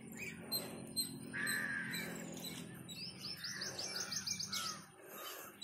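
Several birds calling and chirping, with a fast high trill of about eight notes a second from about three seconds in.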